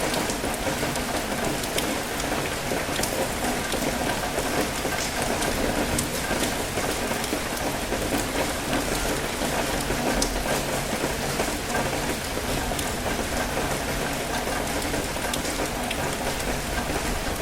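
Steady rain falling, an even hiss dotted with many sharp ticks of individual drops striking close by.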